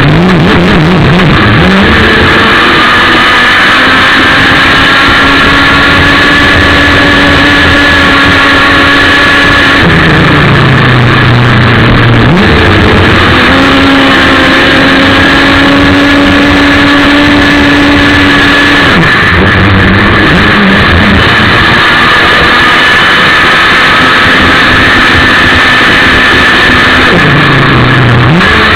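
ASP 61 two-stroke glow (nitro) engine of an RC racing boat, heard from a camera on board. It runs flat out in long steady stretches and eases off in pitch briefly three times before winding back up.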